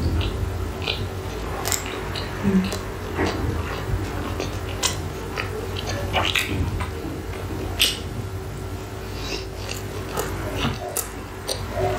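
Close-miked chewing of a mouthful of chicken burger: irregular smacking clicks from the mouth, over a steady low hum.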